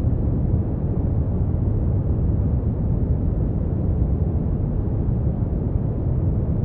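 Steady brown noise: an even, deep rumble of noise, strongest in the bass and dropping off toward the treble, with no changes.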